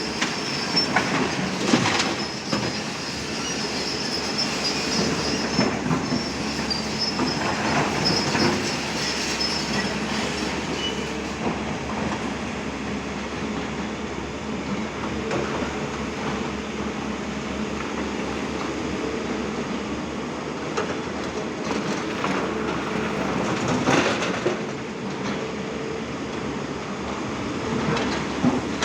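Excavator working: its diesel engine runs steadily under metallic clanks, with a high metal squeal over roughly the first ten seconds.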